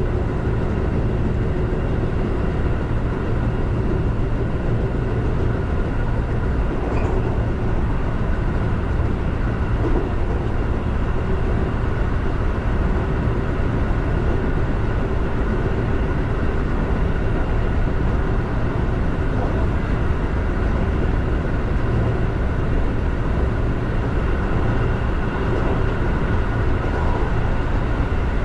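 Keihan electric commuter train running at steady speed, heard from the driver's cab: a constant rumble of wheels on rail with a steady whine over it.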